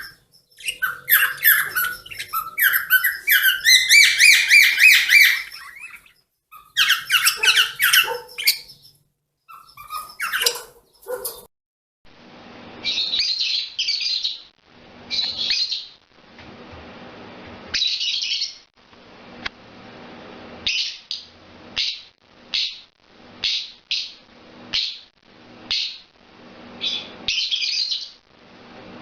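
Pet songbirds singing. For about the first eleven seconds there is a fast, trilling song full of rapid high notes. After a break it changes to short separate chirps about once a second, over a faint hiss.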